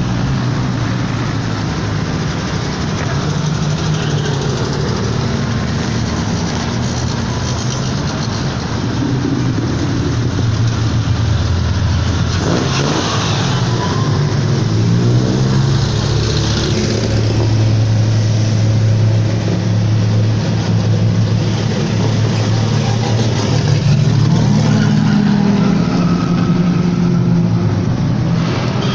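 Engines running at a classic car and motorcycle meet, a steady low drone with the pitch rising and falling a few times as an engine is revved.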